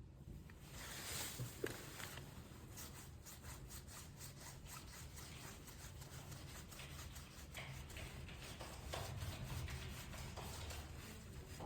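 Faint rubbing with many light, irregular ticks and taps from a smartphone and small repair tools being handled on a workbench during reassembly.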